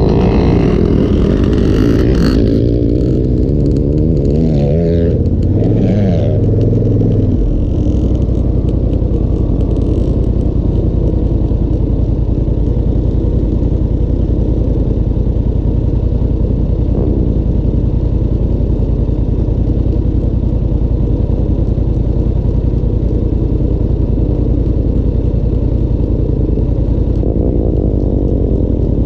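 Off-road motorcycle engines revving, rising and falling in pitch for the first several seconds. Then a steady, evenly pulsing engine idle close by for the rest.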